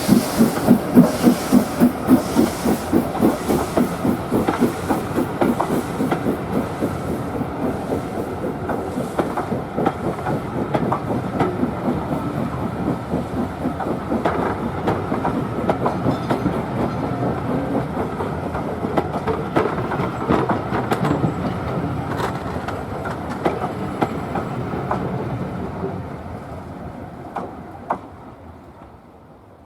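Steam locomotive hauling a train, its exhaust beating about four times a second, then the coaches rumbling by with clicks from the wheels on the rail joints. The sound fades away over the last few seconds as the train draws off.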